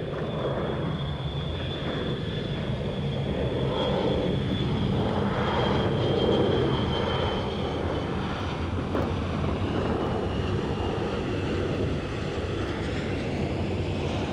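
Jet airliner's engines on a takeoff, a steady roar with a thin high whine that slowly falls in pitch.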